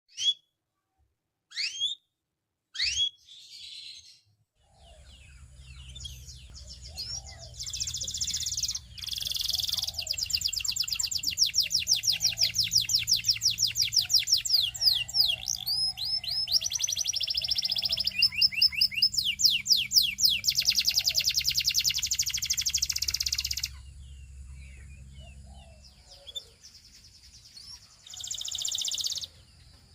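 Belgian singing canary: a few single rising chirps, then long, fast trills of quickly repeated rising notes from about seven seconds in. The song eases off near the end, before one more short burst.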